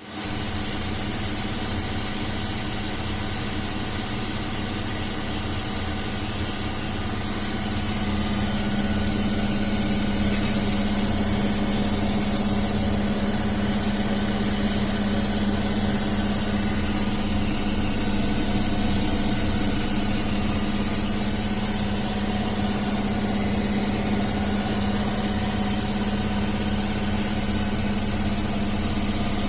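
Washing machine running: a steady motor hum with vibration, getting a little louder about eight seconds in.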